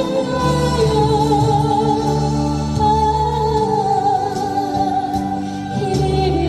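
A singer performing a slow Korean trot song over a backing track, holding long, drawn-out notes.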